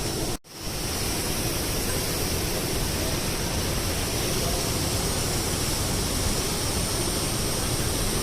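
Steady rush of a waterfall, an even noise with no pitch, cut off for a split second about half a second in.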